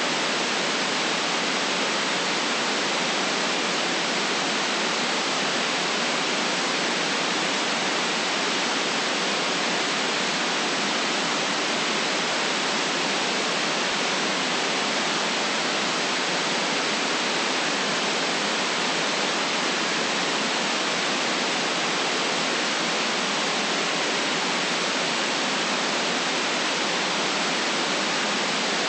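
Steady, unchanging white noise, a smooth even hiss band-limited to cut off sharply at the low and high ends.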